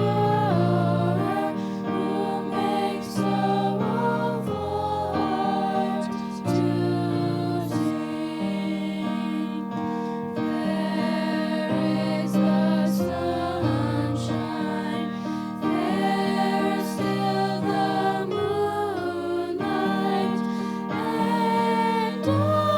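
Girls singing a hymn to an instrumental accompaniment, a slow melody over held bass notes.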